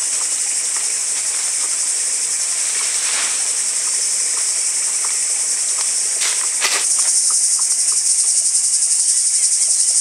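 Steady high-pitched chorus of forest insects, growing a little louder after about six and a half seconds, with a few faint clicks and rustles.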